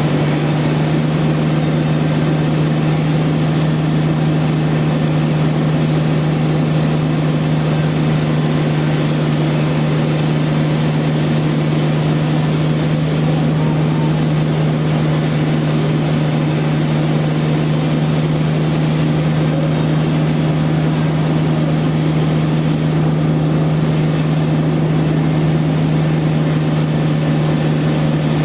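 Sawmill machinery running steadily: a motor's constant low hum with a noisy whir above it, not changing in pitch or level.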